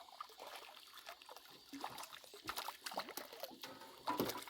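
Water splashing and trickling as a hooked piau is pulled out of the water on a simple fishing pole, with irregular clicks and knocks.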